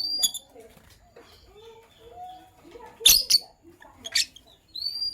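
Lovebirds chirping. Sharp, loud chirps come about three seconds in and again about a second later, with rising whistled calls near the start and end and softer, lower calls in between.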